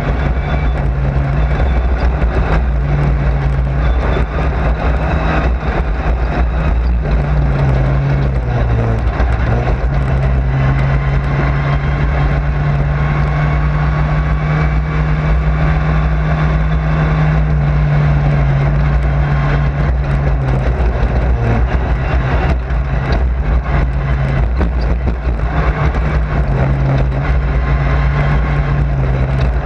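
Race car engine running hard, heard from inside the car, with a dense rush of road and wind noise. Its pitch steps up and down every few seconds as the revs rise and fall.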